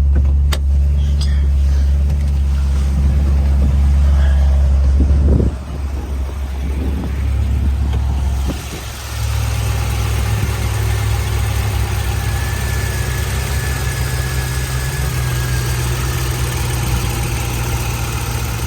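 A 2010 Corvette Z06's 7.0-litre LS7 V8 running on a cold start. A deep, steady drone changes about five seconds in and dips briefly near eight seconds. It then settles into a steady idle with a faint high whine.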